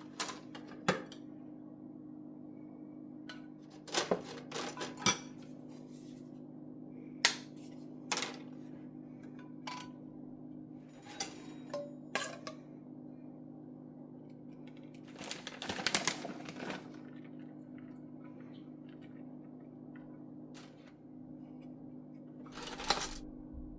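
Kitchen handling sounds: scattered clicks, knocks and clinks of utensils and dishes being set down and moved, with a busier run of clattering about two thirds of the way in. A steady low hum runs underneath.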